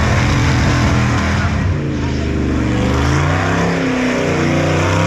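Loud car engine running and revving, its pitch stepping up and down repeatedly.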